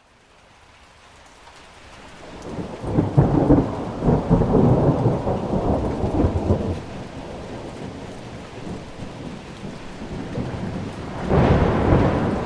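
Thunderstorm: rain hiss fades in, then a long roll of thunder builds a couple of seconds in, peaks and slowly rumbles away. A second, sharper clap of thunder breaks in near the end over the steady rain.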